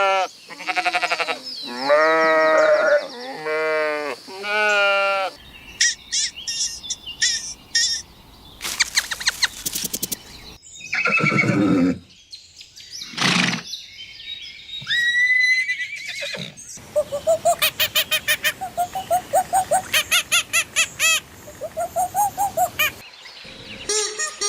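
A run of different animal calls cut together: first a cat meowing about five times, then short clicks, single pitched calls and, in the second half, a long series of rapid repeated calls.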